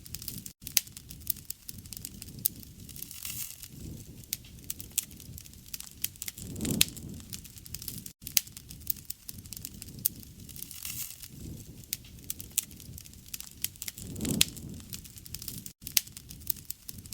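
Wood campfire crackling, with many sharp pops and snaps over a soft rush of flames that swells up low about every seven and a half seconds. The sound drops out for an instant three times at even spacing, like the seam of a repeating loop.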